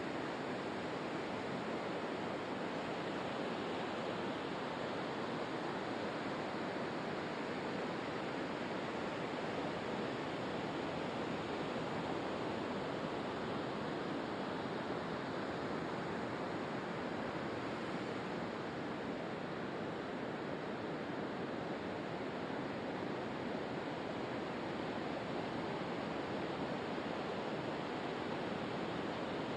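Steady rushing water, an even unbroken noise with no rise and fall of waves.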